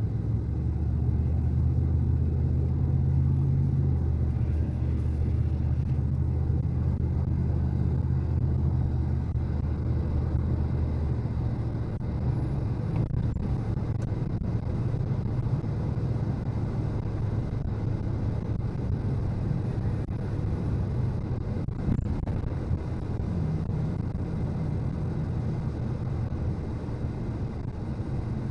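Car engine and road noise heard from inside a moving car's cabin: a steady low rumble, with a steady engine hum clearest for the first ten seconds or so.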